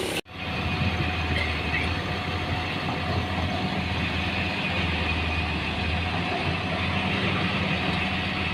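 A heavy vehicle engine running steadily with a low, even drone. It starts suddenly just after an instant of silence.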